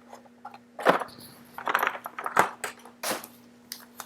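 Trading-card packs and their cardboard box being handled: a series of short irregular rustles, crinkles and light taps, with a faint steady electrical hum under them.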